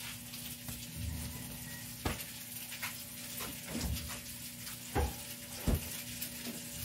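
Chicken frying in a wok over a gas burner, a low steady sizzle, with a few sharp clicks and knocks scattered through it.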